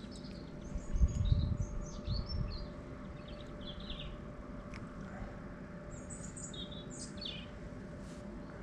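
Small songbirds chirping and twittering on and off, with a burst of low rumble on the microphone about a second in and a faint steady hum underneath.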